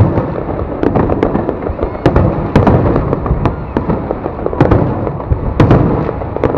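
Aerial fireworks display: shells bursting in rapid, irregular succession, loud sharp bangs over a continuous rumble and crackle of overlapping explosions.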